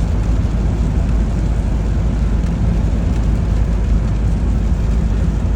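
Steady low rumble of strong storm wind during a tornado warning, with no distinct bangs or thunder claps.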